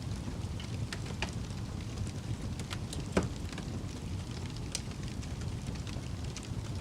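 Wood fire burning in a fireplace: a steady low rumble of flames with scattered crackles and pops, one louder pop about three seconds in.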